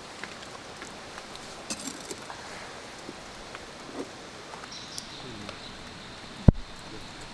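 Light rain falling, with scattered drips and taps, and one loud thump about six and a half seconds in.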